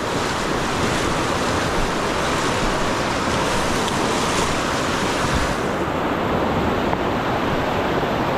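Rushing river current, a steady loud hiss of moving water around the wading angler. The highest part of the hiss drops away about six seconds in.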